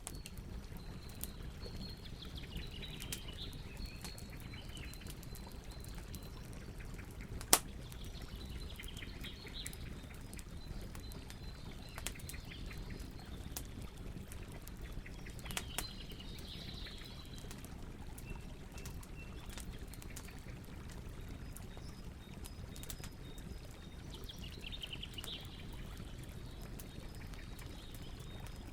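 Campfire crackling steadily with scattered sharp pops, one much louder than the rest about seven and a half seconds in. Small birds chirp and trill behind it now and then.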